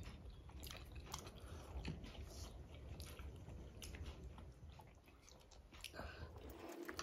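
Faint close-miked chewing and biting of food, with scattered soft clicks, as steamed momos are eaten.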